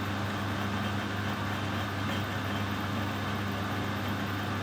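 Metal lathe running steadily while turning a stainless steel stud, a constant motor and gearbox hum.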